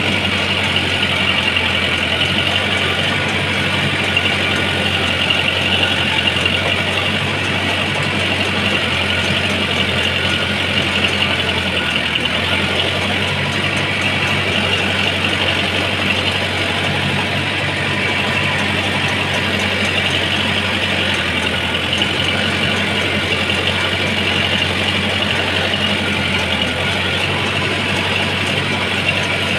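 Truck engine idling steadily, its pitch and level unchanging.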